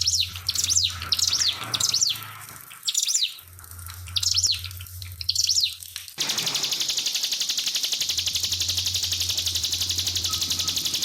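Ciblek (prinia) singing in quick bursts of sharp, falling chirps. About six seconds in, the song cuts off abruptly and a steady, finely pulsing hiss takes over.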